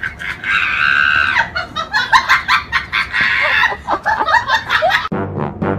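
A bird clucking and squawking in rapid short calls, with one longer held squawk near the start. Brass music cuts in abruptly near the end.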